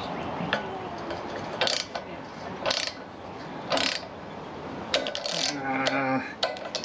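A ratchet wrench clicking in short strokes about once a second, working a fastener on a lawn tractor engine. A brief low hum or groan comes near the end.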